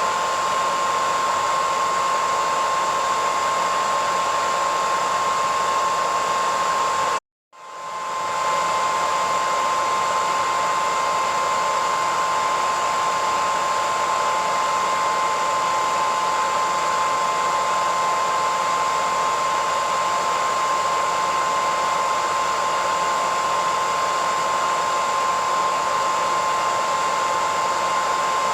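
Hair dryer running steadily: a rush of air with a steady high whine on top. About seven seconds in the sound cuts out completely for a moment, then swells back within half a second.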